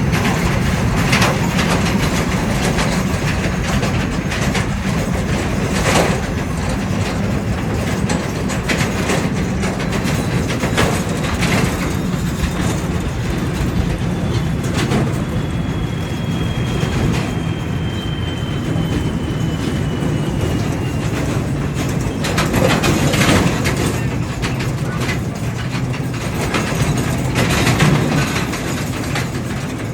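A heavy truck driving on the road: a steady low rumble with occasional sharp knocks and rattles. A faint thin whine slowly falls in pitch about halfway through.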